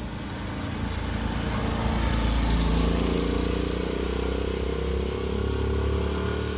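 A 1957 BMW Isetta 300's single-cylinder four-stroke engine running as the little car drives down the street. The engine note is steady in pitch and is loudest about three seconds in.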